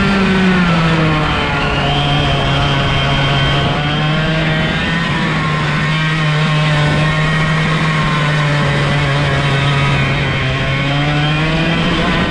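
125cc two-stroke kart engine, direct drive with no gearbox or clutch, running at high revs. Its pitch drops about a second in, holds steady, and climbs again near the end.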